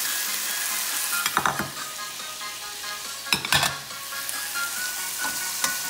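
Onion, tomato, garlic and ginger sizzling as they sauté in margarine in a stainless steel pot. A metal spoon knocks and scrapes against the pot twice, about a second and a half in and again past three seconds.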